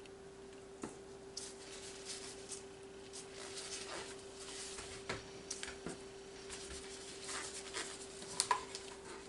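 Scattered light clicks, taps and rustling of hands handling small plastic cups and paint for an acrylic pour, with two sharper ticks near the end, over a steady low hum.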